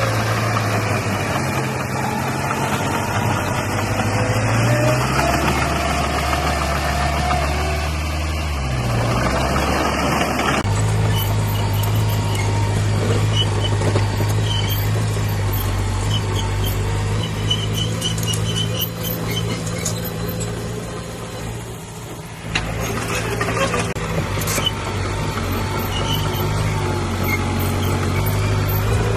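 Heavy diesel engine of earthmoving machinery running steadily, its pitch shifting a few seconds in as it works under load, with short high-pitched squeaks in the middle. The sound changes abruptly twice, at about ten seconds and about twenty-two seconds.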